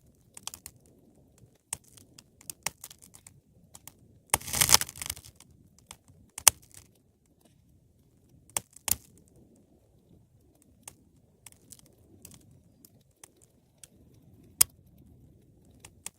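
Wood fire crackling, with sharp pops scattered irregularly over a faint low rumble of flame, and a dense burst of crackling about four and a half seconds in.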